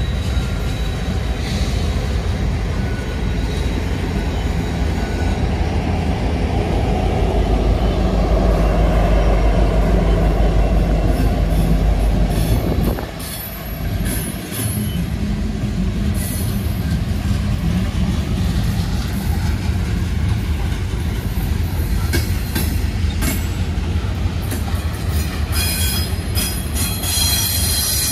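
Train passing on a tight curve, its wheels squealing against the rails. A heavy low rumble for the first half drops away about halfway through, and high squeals and clatter from the cars grow toward the end.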